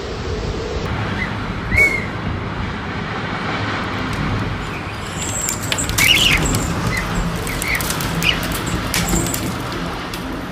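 Strong wind rushing and buffeting steadily, with a few short high chirps about two seconds in and again around the middle.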